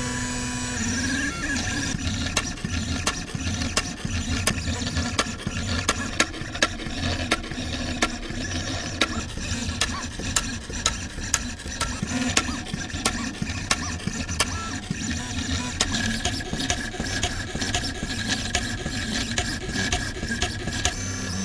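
Small printing machine running: motors whirring steadily, with frequent irregular sharp clicks.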